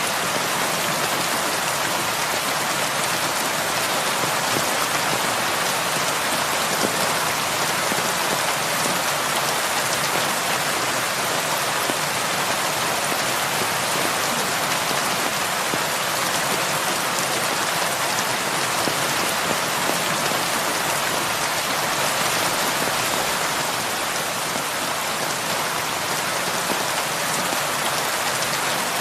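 Heavy rain falling steadily on a surface, a dense even hiss of many drops with no thunder or distinct events.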